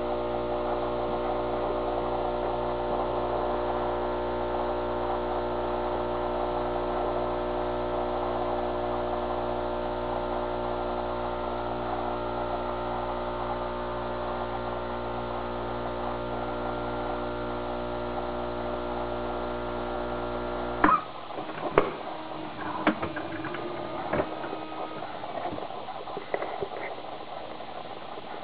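Saeco super-automatic espresso machine's pump humming steadily as it brews. It cuts off suddenly about three-quarters of the way through, followed by a few sharp clicks and knocks.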